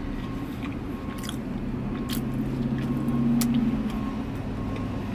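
Close-up chewing of a soft garlic-butter breadstick, with small clicks from the mouth. A car engine hums steadily underneath.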